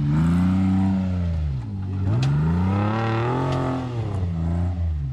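Off-road vehicle engine revving hard, its pitch climbing and dropping back three times as the throttle is worked.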